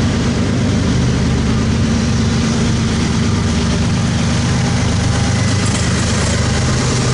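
Diesel freight locomotives working hard under load as an eastbound train pulls out of the yard, their engines throttled up and smoking heavily: a steady heavy engine drone with some rail noise.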